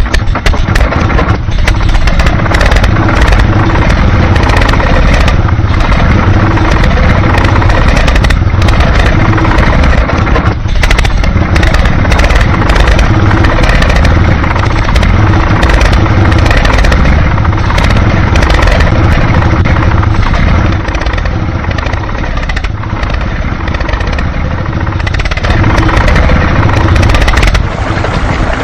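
A motor running steadily with a heavy low rumble and rapid rattling clicks, easing off a little about three-quarters of the way through.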